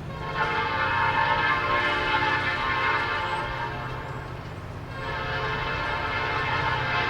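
Diesel freight locomotive's multi-chime air horn sounding two long blasts: the first eases off about four seconds in and the second starts about a second later. The locomotive's diesel engine rumbles underneath.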